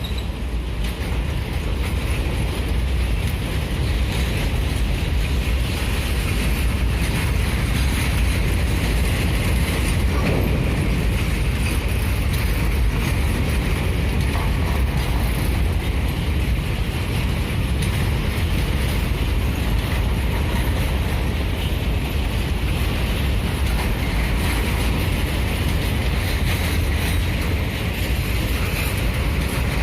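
Long freight train's wagons rolling slowly past, a steady rumble of steel wheels on the rails.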